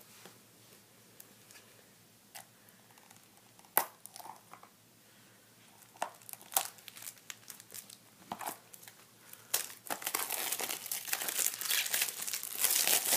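Plastic shrink wrap being torn and peeled off a Blu-ray case: scattered crinkles and snaps at first, then continuous dense crinkling from about ten seconds in.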